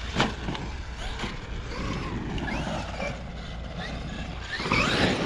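Electric motor of a 1/6-scale Traxxas XRT RC truck whining up and down in pitch as it is driven over dirt jumps. There are two sharp knocks near the start, about a second apart.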